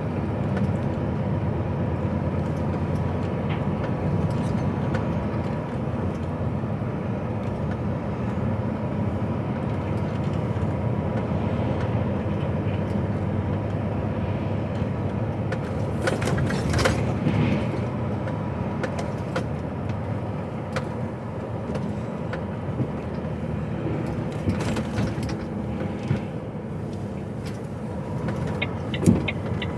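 HGV lorry's engine and road noise heard from inside the cab while driving, a steady rumble with a thin steady tone over it. A few short knocks come around the middle and again near the end, and a fast run of ticks closes it.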